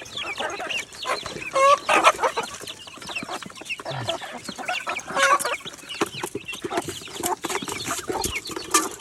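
Chickens clucking, with a constant busy peeping of young birds in the flock; the louder calls come about two seconds in and again just after five seconds.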